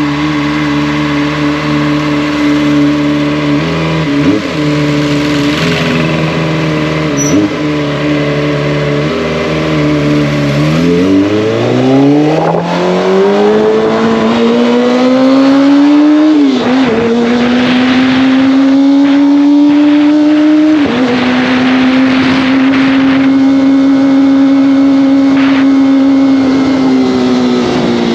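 Kawasaki ZX-25R's 250 cc inline-four engine and exhaust heard from the saddle while riding. It holds a steady note, then drops low about ten seconds in and climbs as the bike accelerates. Two sharp dips in pitch mark gear changes, and it then cruises at a steady pitch.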